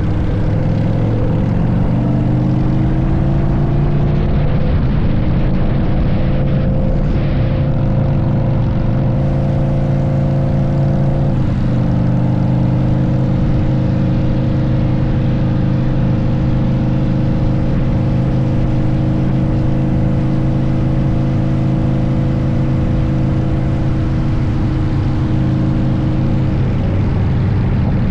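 Harley-Davidson motorcycle's V-twin engine running at road speed. Its pitch rises over the first few seconds, breaks briefly about eleven seconds in, then holds steady, with wind and road noise beneath it.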